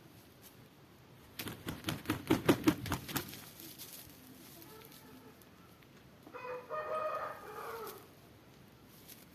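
Aseel rooster crowing once, a short steady crow of under two seconds, after a loud burst of about a dozen rapid wing-flap beats.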